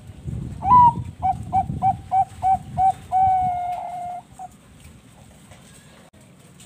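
Zebra dove (Bangkok perkutut) singing one song phrase. It opens on a rising note, runs into a quick series of about six short clipped notes, and ends on a long held note followed by one short note. A low rumble runs beneath the first half.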